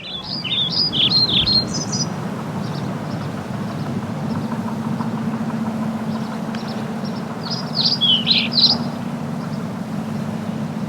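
A songbird sings two short bursts of quick, gliding chirps, one near the start and another about eight seconds in, over a steady machinery hum with a low drone.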